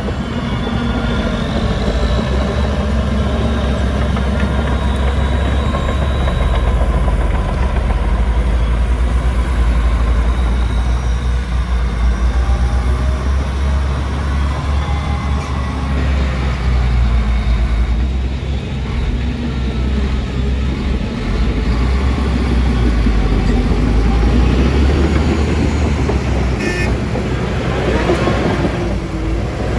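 A Shantui crawler bulldozer's heavy diesel engine running steadily under load, with high metallic squeaks and squeals from its steel tracks over the engine note.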